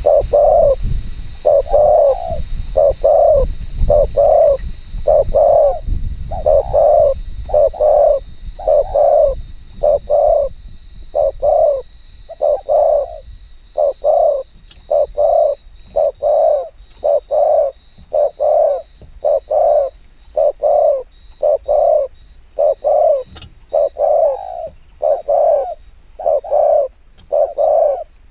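Spotted dove cooing in a fast unbroken run of short coos, a little more than one a second: the rapid 'gù kích bổi' coo that Vietnamese dove keepers use to challenge wild doves.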